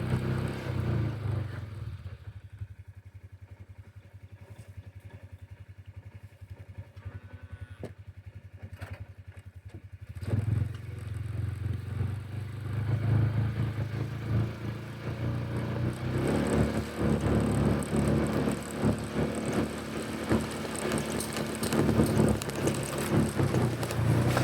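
Engine of a farm vehicle running. It drops to a quiet, even idle for several seconds, picks up again about ten seconds in, and runs louder still from about sixteen seconds.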